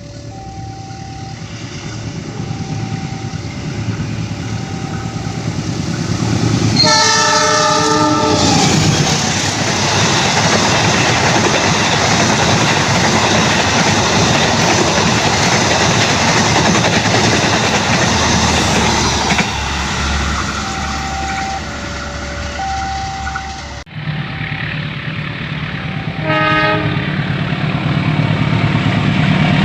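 Level-crossing warning signal sounding two alternating tones, then a diesel locomotive's horn blares for about two seconds and the train passes loudly with wheels running over the rails. After a cut, the crossing signal rings again, another horn gives a short blast, and a second train approaches.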